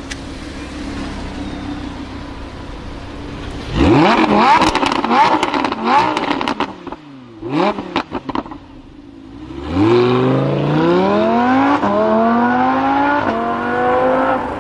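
Lamborghini Huracán LP610-4's V10 engine idling, then revved sharply about four seconds in with crackles as the revs fall, followed by a second short blip. From about ten seconds it accelerates hard, the pitch climbing steadily through two upshifts.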